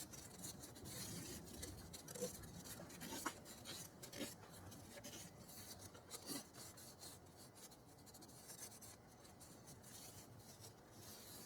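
Faint rubbing and scraping with a few light, scattered clicks: small parts and gaskets being handled at the workbench.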